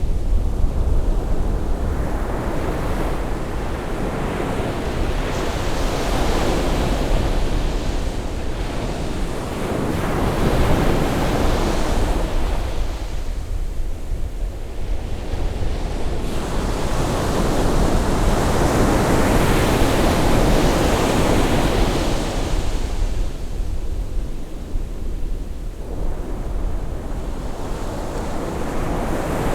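Sea waves breaking and washing onto the shore on a rising tide, swelling and fading in long surges roughly every ten seconds. A steady low wind rumble runs underneath.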